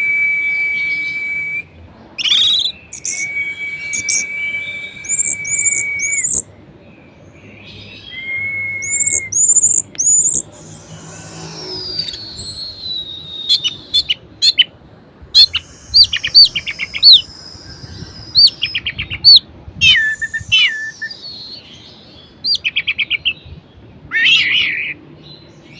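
Orange-headed thrush (anis merah) singing a varied song: long steady whistled notes held for one to three seconds, then quick high chirps, a long falling whistle and fast trilled and repeated notes.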